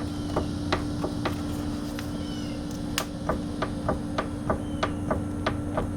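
Worn front A-arm bushings on a 2015 Arctic Cat Wildcat Sport clicking and knocking as the wheel is rocked by hand and the A-arm slides back and forth on its bolt, about three knocks a second at uneven spacing. A steady low hum runs underneath.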